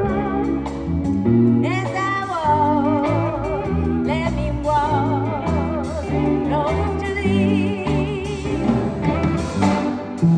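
A live Sacred Steel gospel band playing, with a wavering, gliding lead line and singing over bass and drums.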